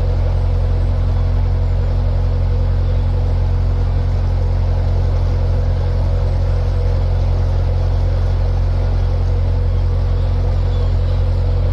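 Narrowboat engine running steadily under way, a constant low drone with no change in speed.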